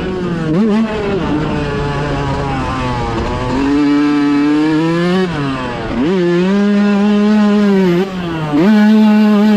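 Dirt bike engine running hard at high revs, its pitch dipping and climbing again and again as the throttle is chopped and reopened, with sharp drops about six seconds in and near the end before it picks back up.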